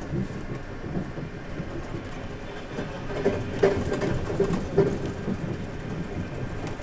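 Sleeper train carriage running along the track, heard from inside the compartment: a steady rumble of the wheels with a cluster of louder knocks and clacks about halfway through.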